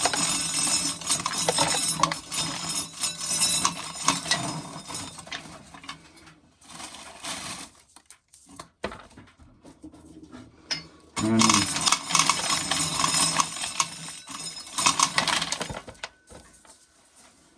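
Dry corn kernels rattling and clinking as corn is shelled into a container, a dense patter of many small hits. It comes in two spells with a quieter stretch in the middle.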